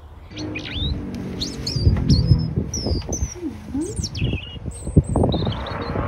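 Small songbirds chirping: a run of high chirps and short whistled notes, several falling in pitch, with one thin high note held briefly late on. A low rumble with dull knocks runs underneath.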